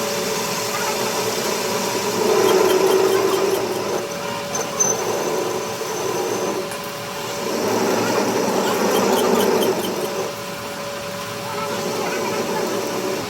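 Workshop machine running with a steady hum, growing louder twice, about two and eight seconds in, as it works the metal.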